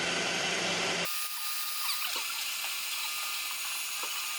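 Boring machine drilling the spark-plug well of a cylinder head with a reground drill: a steady machining noise. About a second in it changes abruptly to a thinner high-pitched hiss with scattered light ticks.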